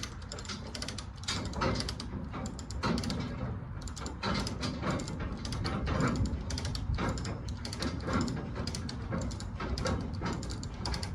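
Rapid, irregular clicks and knocks, several a second, from mechanical work on a truck.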